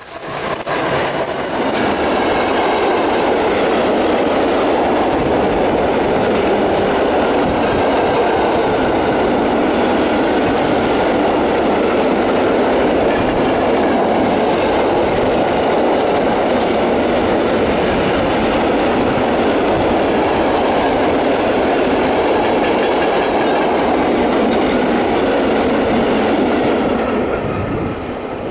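Freight train of hopper wagons rolling past close by behind a class 441 electric locomotive, wheels clattering over the rail joints in a steady rush. The noise drops off near the end as the last wagon passes.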